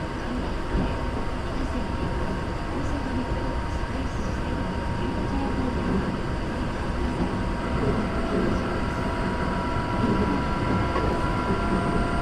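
Hankyu 3300 series commuter train running, heard from inside the car: a steady rumble of wheels on rail with faint steady tones over it, a few higher tones joining about eight seconds in.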